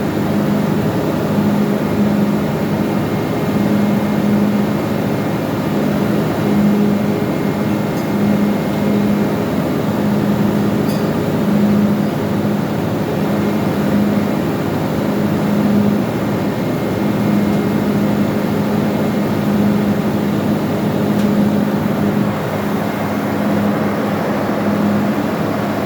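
Steady, loud machinery noise of a ship's engine room, with a low hum that swells and fades irregularly every second or so.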